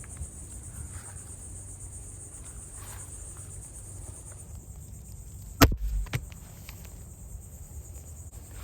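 A single shot from a .22 FX Maverick PCP air rifle, a sharp crack with a low thump a little past halfway, followed about half a second later by a fainter click. Before the shot a steady high insect buzz runs and then stops.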